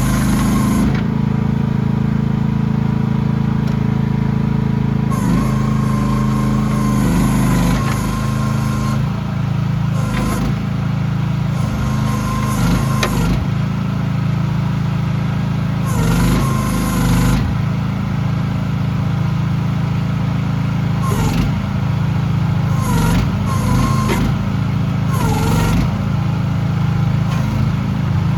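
CFG QK16R mini excavator's engine running steadily, with several passages of a few seconds each where its note dips and wavers and a hiss rises, as under hydraulic load.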